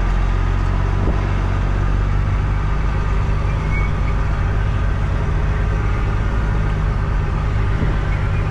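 Truck engine running steadily as the truck rolls slowly, a constant low hum.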